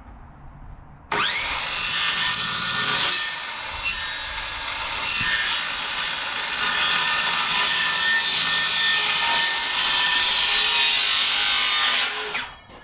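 Circular saw cutting across the corner of a plywood sheet. The motor whines up about a second in, runs under load through the wood with a brief ease around three seconds in, and winds down near the end.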